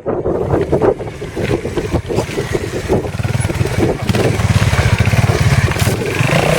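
Trials motorcycle engine, revved in short uneven bursts at first, then running steadier under throttle toward the end.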